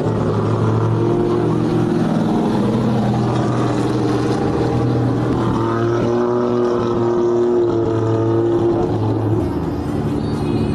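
Racing car engine running at held revs, its pitch stepping up and down every few seconds.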